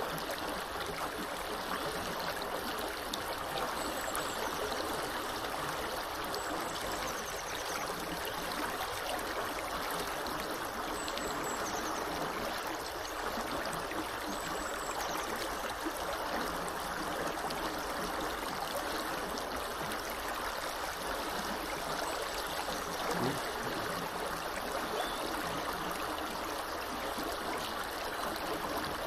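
Small river flowing: a steady rush of water, with a few faint, high bird chirps now and then in the first half.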